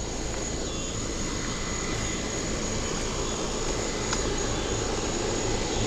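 A low, steady rumble that slowly grows louder, over a constant high-pitched insect drone.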